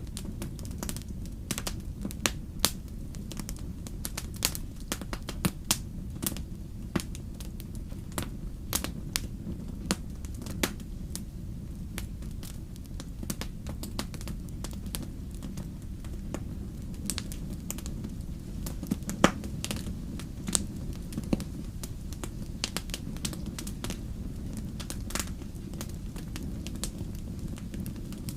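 Wood fire crackling: a steady low rumble of burning with frequent irregular sharp pops and snaps, one louder pop about two-thirds of the way through.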